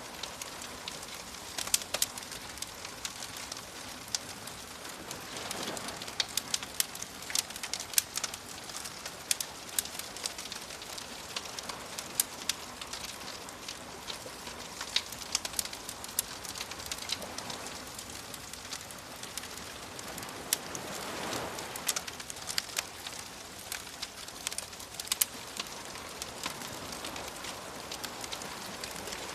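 Wood fire crackling with frequent sharp pops, over soft waves that swell and wash in a few times.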